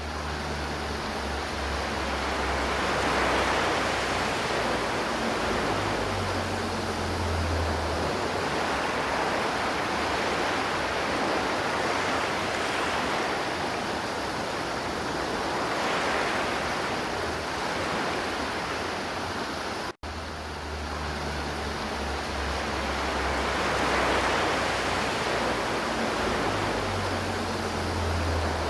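River water flowing: a steady rushing with slow, gentle swells every few seconds. About 20 seconds in, the sound drops out for an instant, like the seam where a recording loops.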